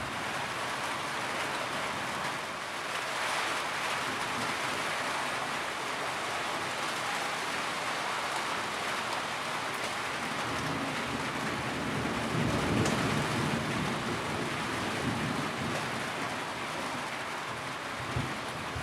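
Steady rain, with a low rumble of thunder swelling about two-thirds of the way through.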